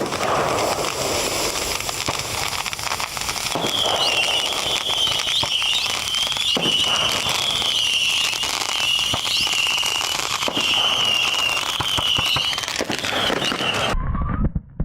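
Big bonfire of dry Christmas trees burning fiercely: a dense crackling and popping over a steady rush of flame, with a wavering high whistle through most of it. The sound cuts off abruptly near the end.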